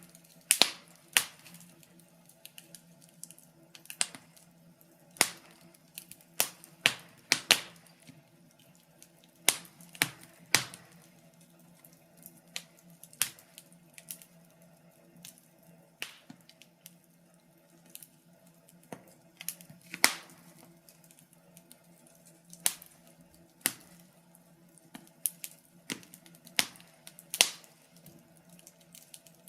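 Wood fire crackling: irregular sharp pops and snaps, often one to three a second with short gaps, over a faint steady low hum.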